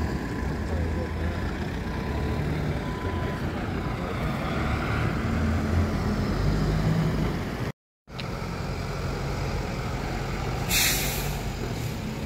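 Cummins ISF3.8 four-cylinder diesel of a Daewoo Lestar bus running, its pitch shifting a little. About eleven seconds in there is a short hiss of released compressed air from the bus's pneumatic system. The sound cuts out for a split second about two thirds of the way through.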